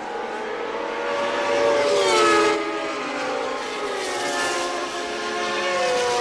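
Several 1989 Formula One cars' naturally aspirated racing engines running at high revs and overlapping. The loudest passes about two seconds in, its pitch falling sharply as it goes by, and another engine's pitch drops near the end.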